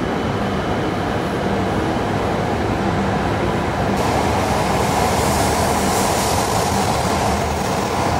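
H5 series Shinkansen trainset pulling out of the platform and gathering speed. Its running noise is steady at first, then grows louder and brighter with a rising hiss about four seconds in as the cars pass faster.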